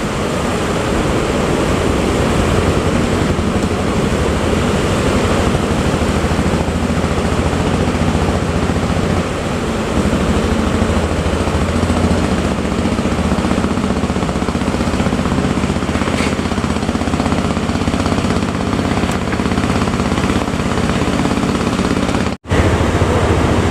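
A boat engine running steadily over a loud rush of wind and sea. The sound cuts out for an instant near the end.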